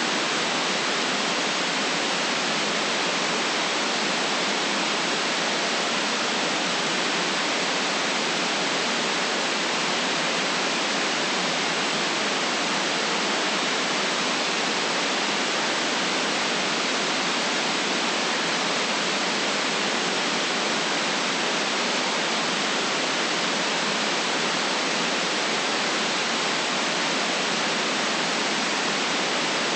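Steady synthetic white noise: an even, unchanging hiss with no events, cut off below the lowest bass and above the high treble.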